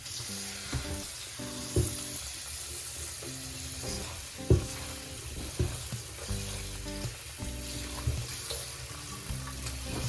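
Food sizzling as it fries in a pan, a steady crackle, with a couple of sharp taps about two and four and a half seconds in. Soft music plays underneath.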